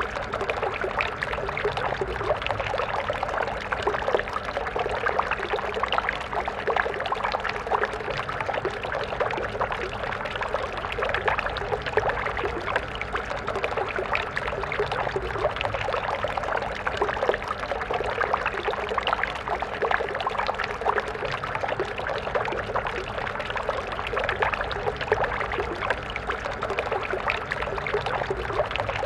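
Water of a small stream flowing and splashing steadily, a dense constant babble of small splashes.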